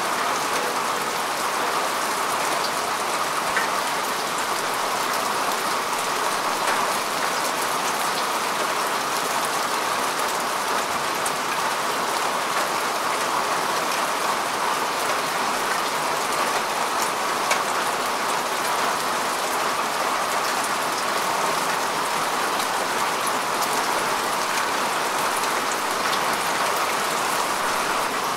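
Steady rain falling on grass and earth, an even hiss with scattered drop ticks.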